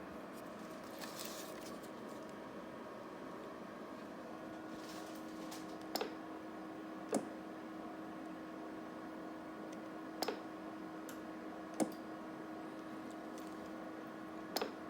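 Steady electrical hum with a faint hiss, broken by about five sharp clicks spaced one to three seconds apart.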